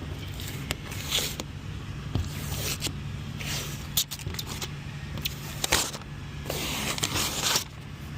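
Truck engine idling steadily, under a run of scrapes, clicks and rustles of something being handled.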